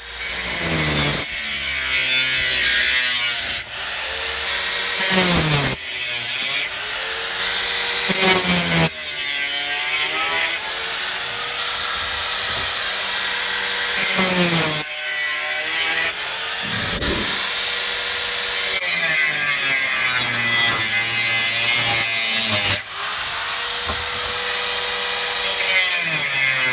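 Power tool cutting through the steel canister of an engine oil filter: a harsh, continuous cutting noise. The motor's pitch sags under load and recovers again and again, with brief let-offs about a third of the way in and again near the end.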